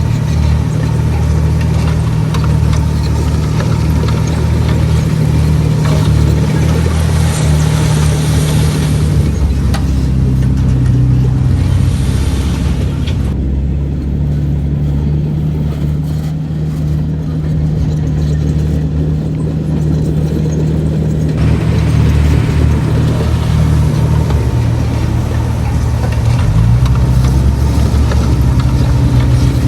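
Diesel engine of a Komatsu D31PX bulldozer running, its pitch shifting a few times as it works.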